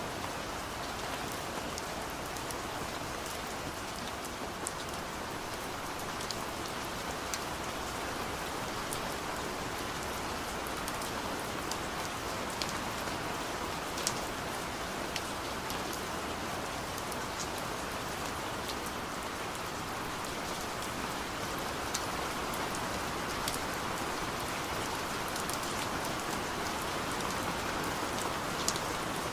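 Steady rain falling on a car's roof and windows, heard from inside the cabin, with scattered sharp ticks of single drops.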